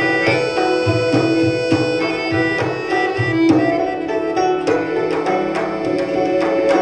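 Live ensemble music: hand drums struck in a quick rhythm under sustained melodic instrument tones.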